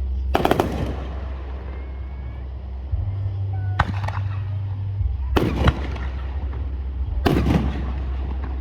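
Aerial fireworks bursting: four sharp bangs a couple of seconds apart, some with a short crackle after, over a steady low rumble.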